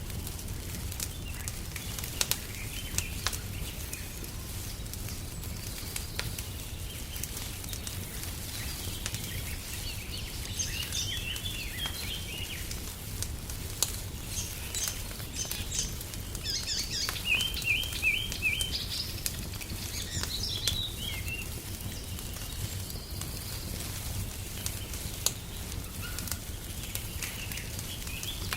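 Wood fire crackling with scattered sharp pops over a steady low rumble, while songbirds chirp; midway comes a run of quick repeated high notes.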